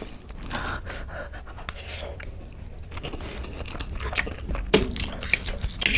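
A person chewing and biting food close to the microphone, with crunching and wet mouth clicks that come thicker near the end.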